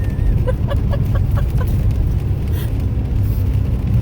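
A person laughing in a quick run of short 'ha' pulses, over the steady low rumble of a car cabin on the road.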